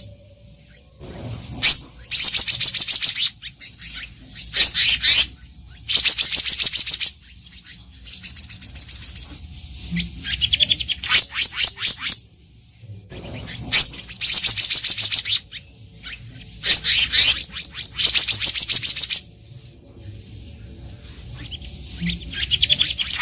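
Black-naped monarch singing: about seven bursts of rapid, high, ringing notes, each burst a second or two long, with short pauses between.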